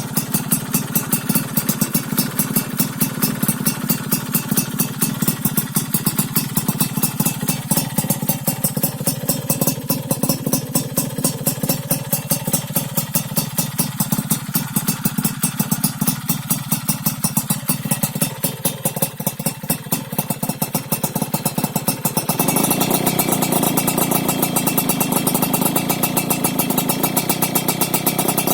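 Yamaha F1ZR two-stroke underbone engine running through an aftermarket stainless under-belly expansion-chamber exhaust and silencer, idling with a rapid, even pulse. About three-quarters of the way through, the throttle is opened a little and it runs louder and brighter at a steady higher speed.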